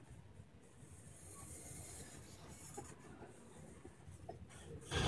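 Freight train's covered hopper cars rolling past: a low, steady rumble of steel wheels on the rails, with one loud clunk near the end.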